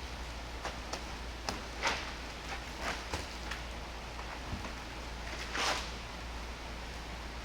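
Car being washed by hand: a few light clicks and two short swishes, about two and five and a half seconds in, over a steady low hum.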